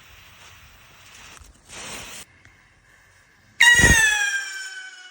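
Firework rocket (Nico Phantoms & Ghosts): a soft fuse hiss and a brief louder hiss, then about three and a half seconds in a sudden bang with a loud whistle that slides down in pitch and fades over about a second and a half.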